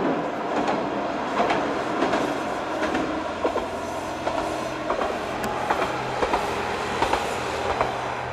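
Diesel railcar of the Flower Nagai Line running along the track, its wheels clacking over rail joints with a steady low engine hum underneath. The clacks come every half second to a second, some in quick pairs.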